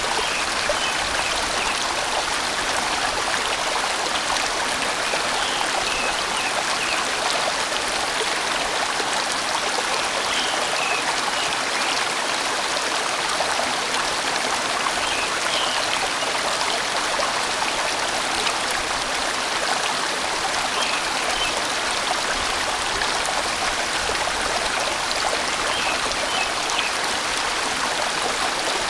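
A sizable valley stream flowing steadily: a full, even wash of running water.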